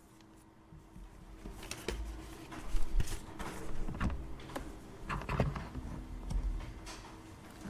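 Office ambience: irregular clicks, taps and handling noises, the kind made by typing and desk work, over a faint steady hum.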